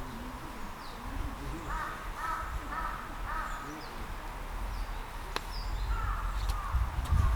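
Bird calls: four short, harsh calls in quick succession about two seconds in, then a few more near the end, over a low wind rumble.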